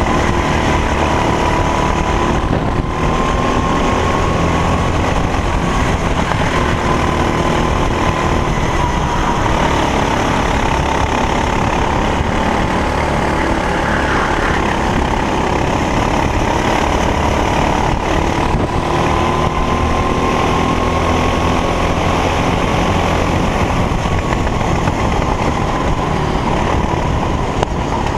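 Racing kart engine running steadily, its pitch drifting slowly up and down, with two brief dips in the sound.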